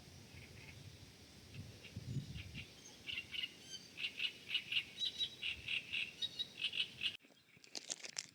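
Small birds chirping in quick, repeated high calls, which grow busy about three seconds in and cut off suddenly near the end.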